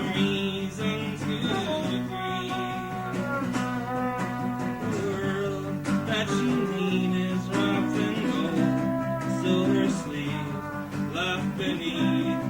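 Acoustic guitar strummed in steady chords, changing every second or so.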